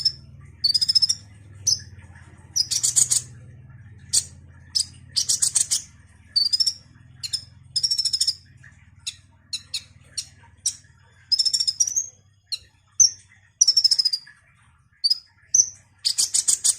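Sunbird ('kolibri') song: a string of short, high, thin chirps, rising slurred notes and quick dense trills, repeated with short gaps, over a faint low hum.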